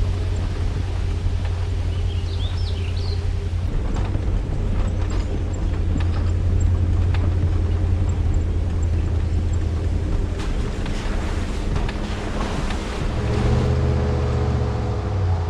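A vehicle driving, with a steady low rumble from the engine and road and some wind noise. Near the end, a pitched engine tone comes in over the rumble.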